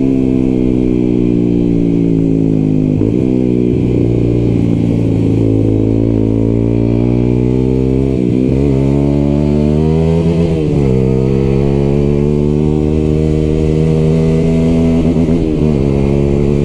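Lexmoto LXR 125 sport bike with an aftermarket exhaust, ridden on the road and heard loud from on board. The engine holds fairly steady revs, with the pitch shifting up and down a few times as the throttle and gears change.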